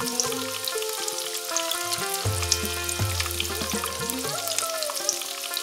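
Egg-coated shami kebabs frying in shallow oil on a flat griddle, sizzling steadily with many small crackles and pops. Background music runs under it: held notes that change in steps over a low bass.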